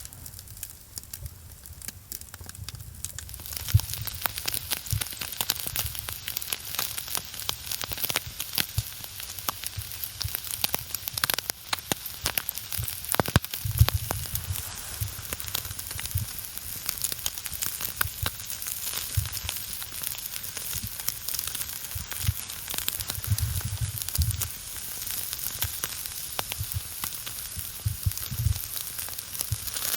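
Chicken shashlik sizzling on skewers over a larch-wood campfire: a steady hiss peppered with many small crackles and pops.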